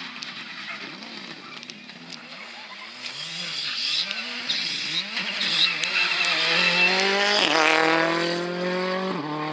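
Rally car engine revving up and down through gear changes, growing louder from about three seconds in; its pitch falls sharply about seven and a half seconds in, then it keeps running loud and steady.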